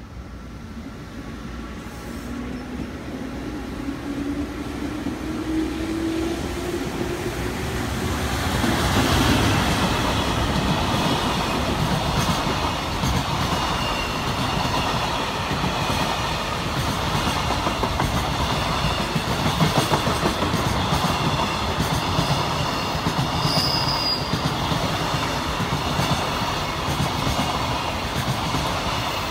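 JR Freight EF210 electric locomotive approaching with a whine that rises in pitch and grows louder, passing about nine seconds in. A long train of container flatcars then rolls through without stopping: steady rumble and clickety-clack of wheels over the rail joints, with a brief high wheel squeal near the end.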